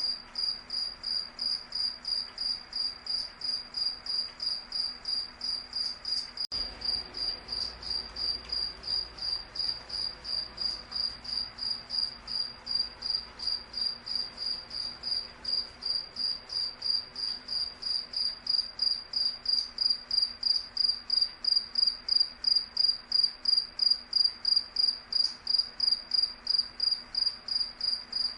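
A cricket chirping in a steady, even rhythm, about three high, single-pitched chirps a second, growing somewhat louder in the second half.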